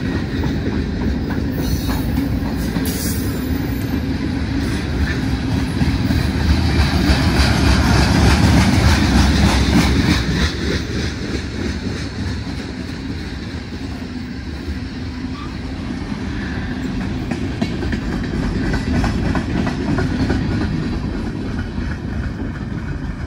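Freight cars of a passing CSX freight train, autoracks and tank cars among them, rolling by with wheels clacking over the rail joints. The rumble is loudest about a third of the way through and eases as the rear of the train goes by.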